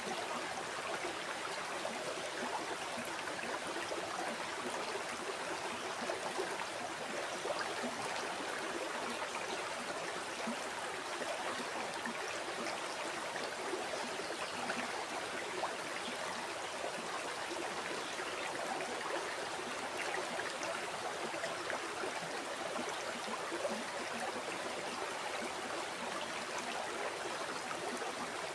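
River water flowing steadily, a continuous rushing and babbling over the stream bed.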